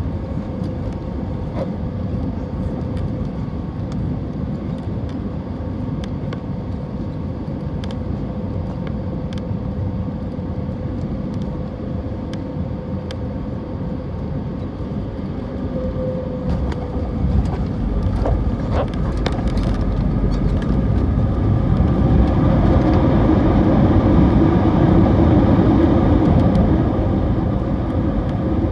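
Cabin noise inside an Airbus A320neo airliner landing: a steady rush of engine and airflow noise with scattered clicks and knocks. It swells louder and deeper about two-thirds of the way through, then eases off near the end.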